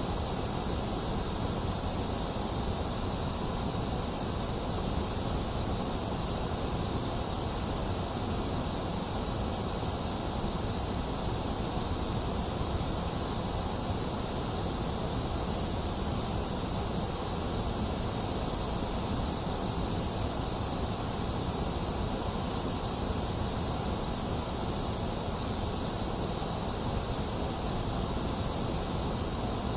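Box fan running steadily, mixed with falling rain: an even, unchanging hiss.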